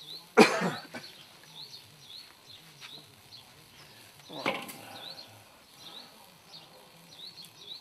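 Faint, short high chirps from a small bird, repeating over and over at about two a second. A brief loud sound comes about half a second in, and a weaker one about four and a half seconds in.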